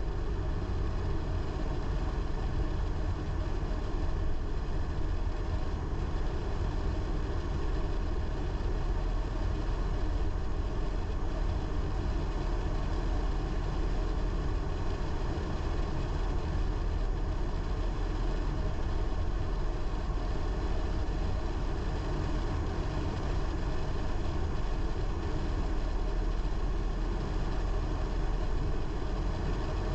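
A car driving at a steady speed: an even low rumble of engine and tyre road noise that holds constant throughout.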